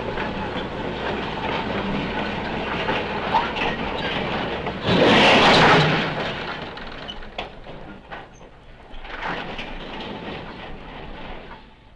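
Steam locomotive running with a rumbling clatter. About five seconds in there is a loud burst of noise lasting about a second, then the sound dies down, picks up again and fades low near the end.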